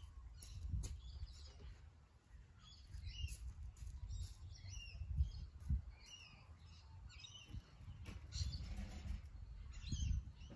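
Several birds chirping outdoors: many short, quick calls that bend in pitch, overlapping throughout, over a low, uneven rumble.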